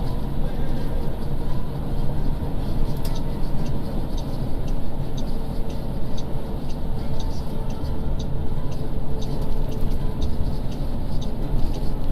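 Volkswagen 25.370 truck running steadily while hauling about 30 tonnes: a loud, constant low rumble with faint light ticks throughout.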